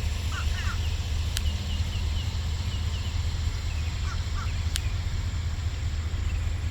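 Steady low rumble of outdoor background noise, with birds chirping faintly and repeatedly over it. Two sharp clicks come about a second in and again near the end.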